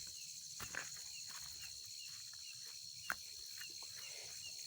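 Faint outdoor rural ambience of insects buzzing steadily at a high pitch, with a short high chirp repeating about two or three times a second and two brief sharp clicks.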